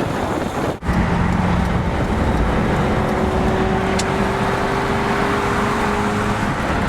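First-generation Isuzu Trooper with a swapped-in Lexus 4.0 L all-aluminium 1UZ-FE V8, driving at a steady cruise: a constant engine drone with road and wind noise, broken by a brief dropout about a second in.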